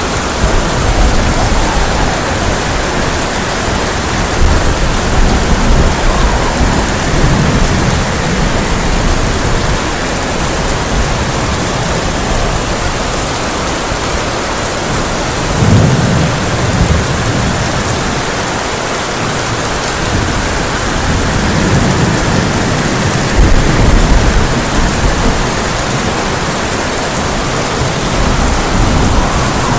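Heavy rain pouring steadily on a tin roof, with low rolls of thunder rumbling in several times, the strongest about halfway through and again a little later.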